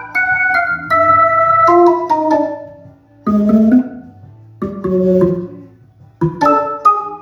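Synthesizer keyboard playing a slow instrumental passage of sampled electric-piano and Hammond-organ chords. Chords are struck and held, in short phrases with brief pauses between them.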